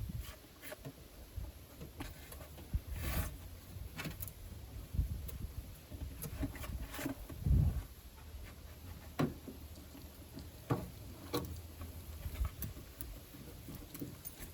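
Scattered light clicks and knocks of screws being driven into plastic trim parts by hand, with one louder thump a little past the middle.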